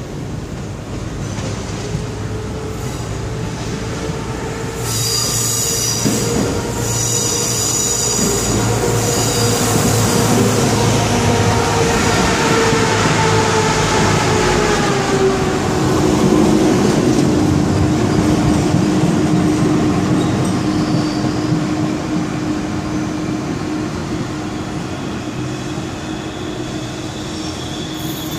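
SA136 diesel railcar pulling into a station platform, with a high-pitched squeal from about five to ten seconds in and a running note that drops in pitch as the train slows, then steadies.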